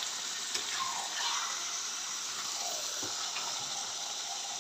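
Raw chicken pieces frying in hot oil in a wok as a spatula stirs them: a steady sizzling hiss, with a few faint scrapes and clicks.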